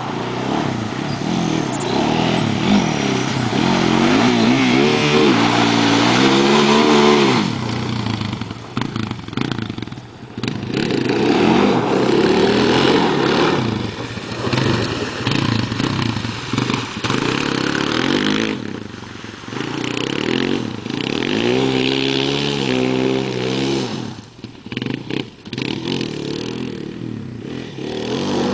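Arctic Cat DVX400 ATV's single-cylinder four-stroke engine revving up and easing off as it is ridden through a water-filled ditch, with water splashing. The engine pitch climbs sharply twice, about five seconds in and again about twenty-two seconds in.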